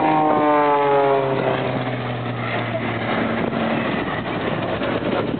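Propeller aircraft flying past, its engine note dropping sharply in pitch over the first second or so as it goes by, then fading away.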